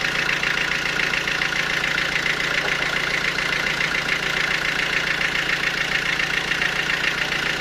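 Sawmill machinery running steadily, with a fast, even pulse over a constant hum.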